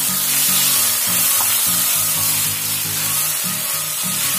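Marinated chicken pieces sizzling in hot oil with fried onions in a pan while being stirred with a wooden spatula, over background music with a stepping bass line.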